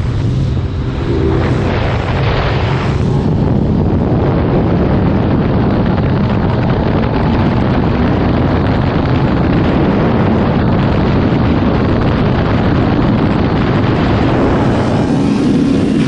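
Motorcycle running at speed, its engine drone buried in heavy wind rush on the microphone.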